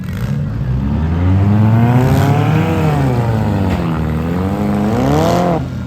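A demolition derby car's engine revving up and down, its pitch climbing for a couple of seconds, falling, then climbing again before dropping away near the end.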